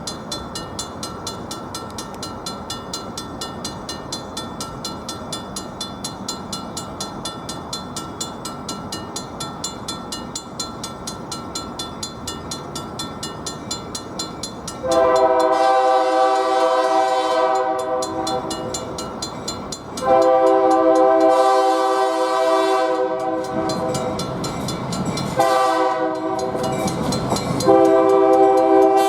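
A bell ringing steadily at about four strokes a second, then the diesel locomotive's multi-chime air horn sounding the grade-crossing signal: two long blasts, a short one, and a long one that is still going at the end. The horn's last blast comes in while the bell keeps ringing underneath.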